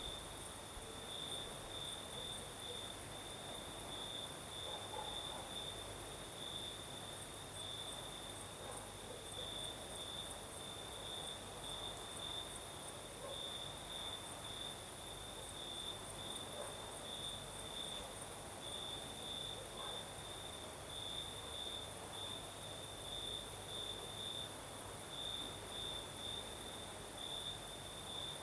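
Crickets singing at night: a continuous, rapidly pulsing trill held at one steady pitch, with a thinner, higher insect trill above it.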